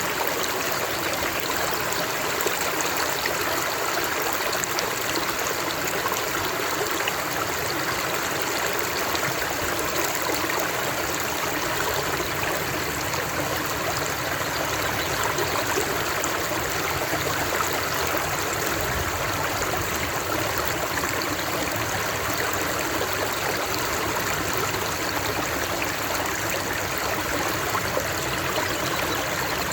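Running water, a steady even rush and trickle with no breaks, like a stream.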